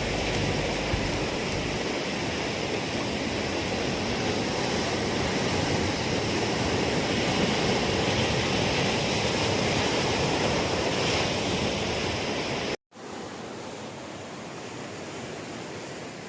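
Rough surf breaking on a sandy beach: a steady wash of waves. About 13 s in it cuts out for an instant, then goes on noticeably quieter.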